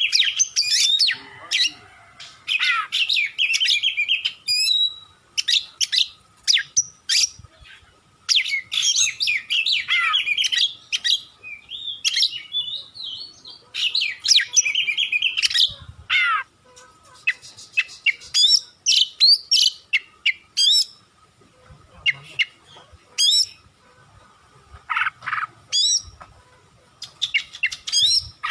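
Oriental magpie-robin (kacer) singing a long, varied song: bursts of whistles, quick chattering runs and sharp high notes, broken by short pauses. A faint steady high hum runs underneath.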